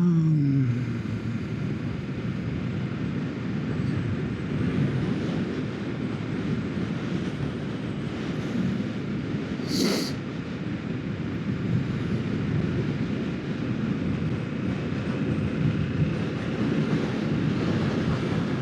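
Kawasaki Ninja 650 parallel-twin engine dropping in revs at the start as the bike slows, then a steady rush of wind and engine noise while riding. A short burst of noise about ten seconds in.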